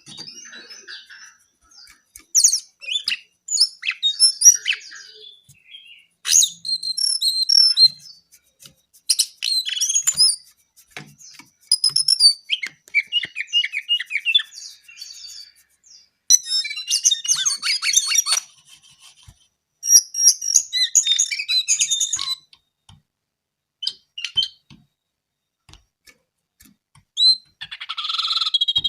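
A brown jongkangan (songbird) singing actively: repeated bursts of quick high chirps and rapid trills, separated by short pauses.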